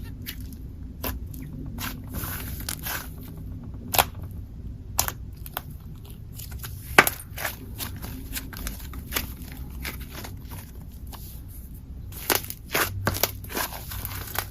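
Slime being squeezed and poked by hand, giving irregular sharp pops and clicks as air pockets burst. The loudest pop comes about halfway through, and the pops come in quick succession near the end.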